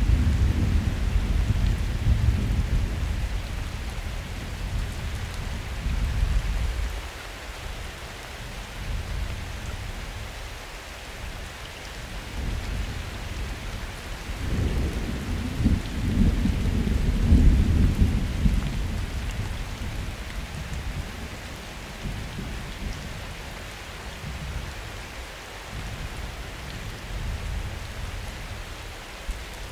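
Steady summer rain falling, with two rolls of distant thunder. The first dies away over the first several seconds, and the second builds about fifteen seconds in, peaks, then fades.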